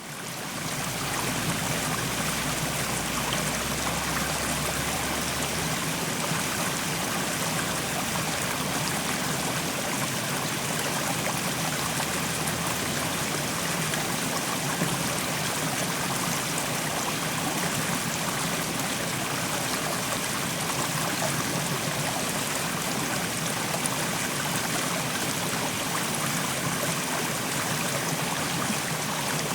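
Mountain stream flowing over rocks: a steady rush and babble of water, fading in over about the first second and then holding even.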